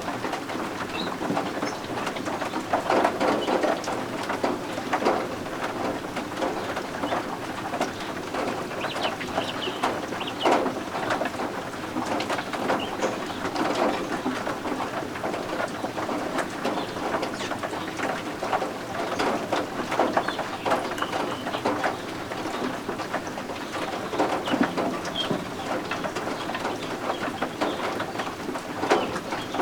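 Baby guinea fowl keets peeping and trilling over the steady patter of rain.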